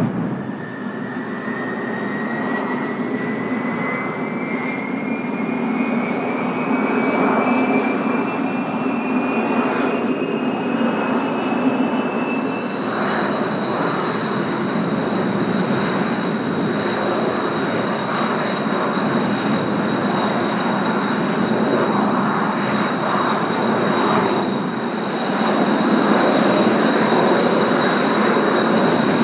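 Blue Impulse Kawasaki T-4 jets' turbofan engines starting up: a whine that climbs slowly in pitch for about twelve seconds, then settles into steady high whines over the engines' rumble as they run at idle.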